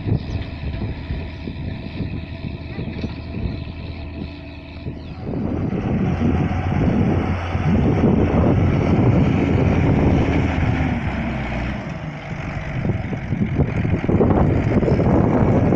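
Ursus 1614 tractor's diesel engine running steadily, then getting much louder and rougher about five seconds in, easing briefly near the end before rising again.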